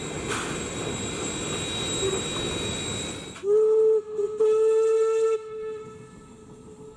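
Steam locomotive running with a steady rumble and hiss, then its whistle sounds a short toot followed by a longer blast on a single note, about three and a half seconds in.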